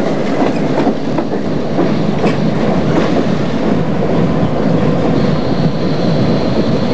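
Iowa Interstate freight train of diesel locomotive and empty cement hoppers rolling past close by, a steady heavy rumble with sharp wheel clicks over the rail joints in the first couple of seconds. A thin steady high whine comes in about five seconds in.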